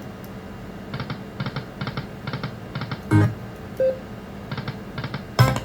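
Aristocrat Lightning Link video slot machine's electronic game sounds during spins: a repeating ticking pattern about twice a second. Two louder knocks come about three seconds in and near the end.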